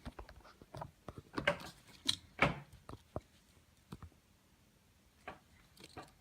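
Handling of airsoft gun parts: a series of separate clicks and knocks, clustered in the first three seconds, with a couple more near the end.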